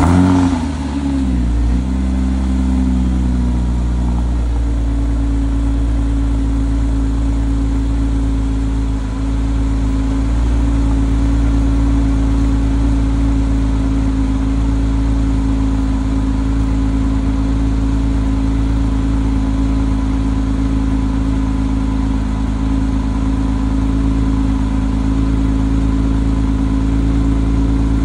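2008 Porsche Boxster's flat-six engine on a cold start, heard at the tailpipe: it comes down from its start-up flare in the first couple of seconds, then settles into a steady cold idle.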